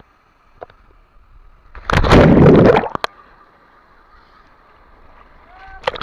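A big splash about two seconds in, lasting about a second, as a person jumps into a waterfall pool, over the faint steady rush of the waterfall.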